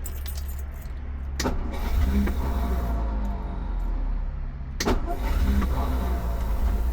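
1956 Ford Thunderbird's V8 engine starting and running, catching without any throttle. Two sharp clicks sound, about a second and a half in and again near five seconds.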